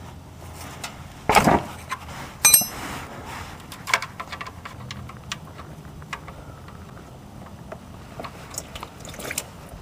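Metal tools and the drain plug being handled during an oil change: a short rustling knock about a second in, then a single ringing metallic clink, followed by a softer knock and scattered small clicks.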